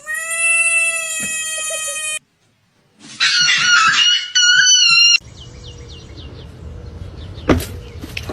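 Animal cries: one long, steady, high-pitched call lasting about two seconds, then after a short gap a harsh, wavering screech lasting about two seconds. A sharp click comes near the end.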